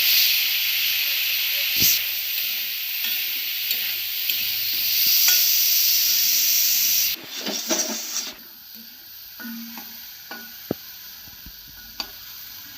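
Pointed gourd (potol) seeds sizzling loudly in hot oil in a kadai, a steady high hiss. About seven seconds in it drops suddenly to a much quieter sizzle, with a few sharp clicks.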